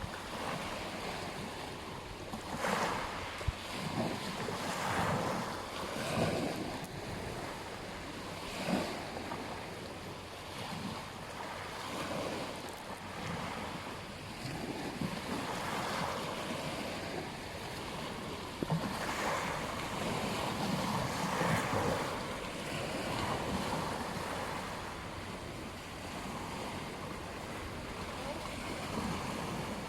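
Ocean waves washing onto a beach, the surf rising and falling in swells every few seconds, with wind buffeting the microphone.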